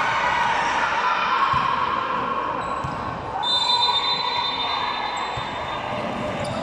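Ambient sound of a football match: a steady mix of distant voices and play. A short, high, steady whistle tone sounds about halfway through and lasts about a second.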